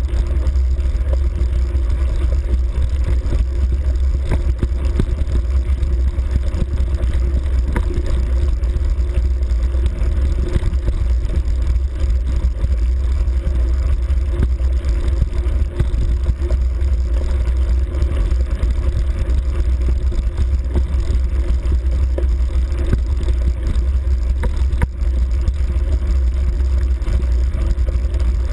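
Engine of a dirt bike ridden steadily along a grassy forest track: an even, low drone that does not let up, with small knocks from the bumps.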